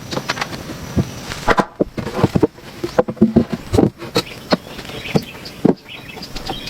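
A run of irregular knocks and clicks at uneven intervals, some sharp, with no steady rhythm.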